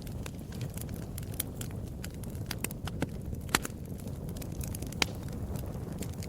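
Wood fire burning steadily, with constant crackling and a low rumble of flames, and two louder pops about three and a half and five seconds in.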